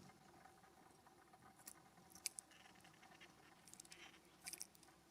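Faint scattered sharp ticks and taps, a few single ones and then a quick cluster near the end, typical of birds pecking and picking at seed on a ground feeder close to the microphone.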